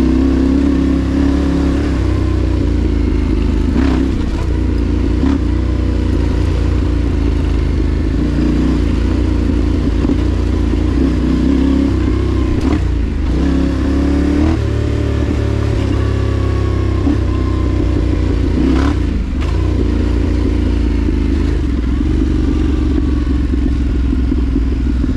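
Dual-sport motorcycle engine running under way on a dirt trail, its revs rising and falling through gear changes, with a few sharp knocks and clatter from the bike over rough ground.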